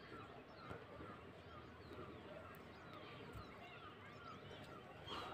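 Faint calls of birds hidden in dense scrub, where wild fowl (jungli murgi) have just run in: many short, falling chirps repeating over one another.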